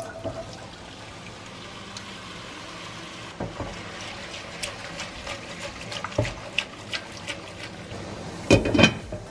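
Shredded potato and onion frying in oil in a pan, a steady sizzling hiss, with scattered clicks and knocks as the pan is shaken on the hob. Near the end a glass lid clatters down onto the pan, the loudest sound.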